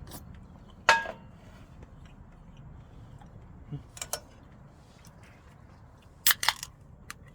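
A few sharp knocks and clinks: one loud strike about a second in that rings briefly like metal, two lighter ones a few seconds later, and a quick cluster of three or four near the end.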